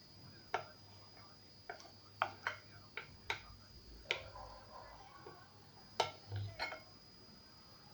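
A spoon clinking and tapping against the bowl and cake molds as thick batter is spooned out: about ten sharp clinks at uneven intervals.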